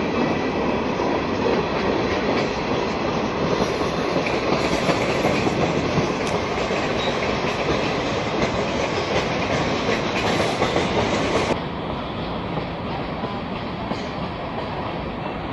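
Freight train of covered hoppers and boxcars rolling past at track side: a steady, loud rumble and clatter of the cars and wheels on the rails. About three quarters of the way through it suddenly drops to a quieter, duller level and carries on.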